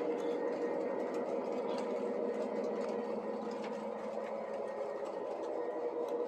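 Model train locomotive's electric motor whirring steadily as the train runs along the track, with faint light ticks of the wheels on the rails.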